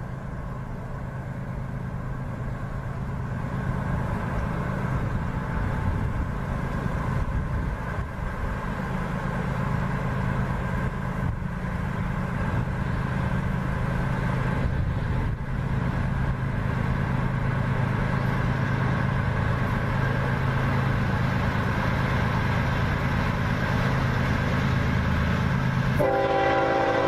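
Two CSX GE ES44AH diesel locomotives hauling a loaded coal train approach at track speed, their engines' steady low drone growing louder as they near. About a second before the end, the lead locomotive's air horn suddenly sounds a loud chord.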